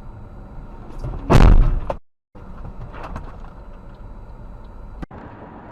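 Car crash captured on a dashcam: one loud bang about a second and a half in, over steady road noise. The sound cuts out for a moment right after it.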